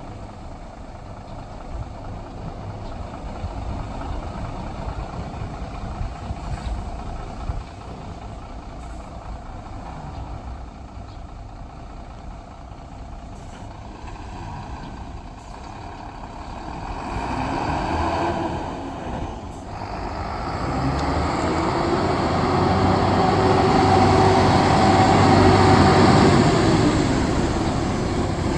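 Sinotruk Howo 6x4 tractor unit's 371 hp six-cylinder diesel running at low revs. About 17 seconds in it rises briefly, then from about 20 seconds it builds louder under higher revs, peaking near the end.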